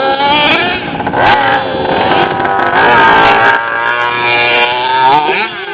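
Small nitro engine of a radio-controlled truck, revving hard: its pitch climbs, holds high for a couple of seconds at full throttle, then falls away near the end.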